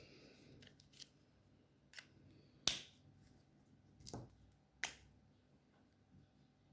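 Alcohol markers being handled on a desk: five sharp plastic clicks and taps, the loudest about two and a half seconds in.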